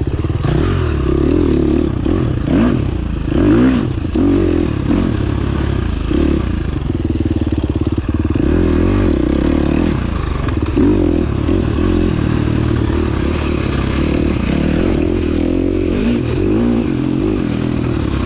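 Dirt bike engine running under load on a trail, its pitch rising and falling with throttle and gear changes, with the rattle and clatter of the bike over rough ground.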